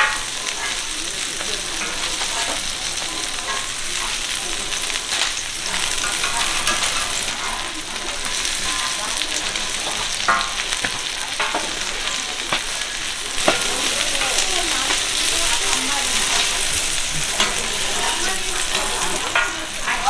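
Egg-battered jeon and a mung bean pancake sizzling steadily in oil on a flat griddle, with a few short clicks here and there.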